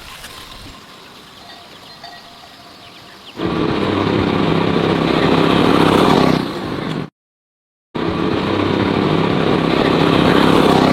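A motor vehicle engine running steadily, starting suddenly about a third of the way in after a quieter stretch. It cuts out completely for under a second just past the middle, then carries on.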